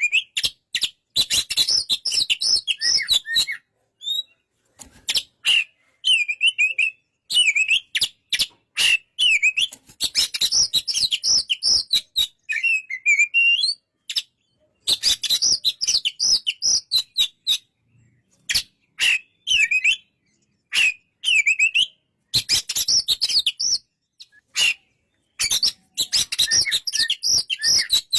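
Oriental magpie-robin (kacer) singing in a run of short, varied phrases: quick chattering notes mixed with bent whistles, separated by brief pauses.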